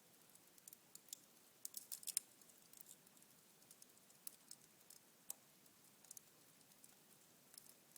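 Cherry-wood fire in a fireplace burned down to embers, giving faint, scattered crackles and ticks, with a quick cluster of sharper pops about two seconds in.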